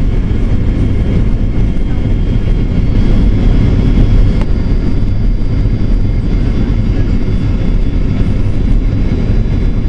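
Airliner cabin noise during landing: a loud, steady low rumble of jet engines and airflow, with a faint thin high whine coming in about halfway through.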